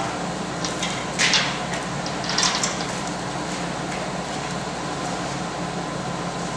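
Molten zinc galvanizing bath popping and spattering as a steel vehicle frame is lowered into it, over a steady hum. There are two short, louder bursts about a second and two and a half seconds in, with a few fainter pops; the popping is probably from the heat difference between the frame and the hot zinc.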